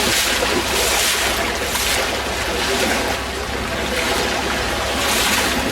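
Floodwater running fast through a campsite, a steady rushing noise that swells now and then.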